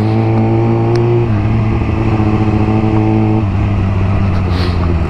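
A 600 cc motorcycle engine runs at a steady pitch while riding a dirt road. Its note changes slightly just over a second in and softens about three and a half seconds in.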